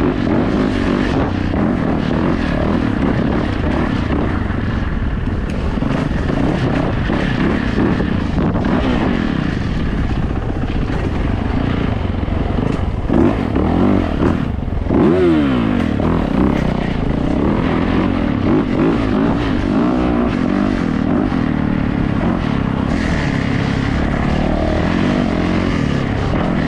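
Yamaha YZ450F dirt bike's four-stroke single-cylinder engine running while riding, its pitch rising and falling with the throttle, most plainly about halfway through.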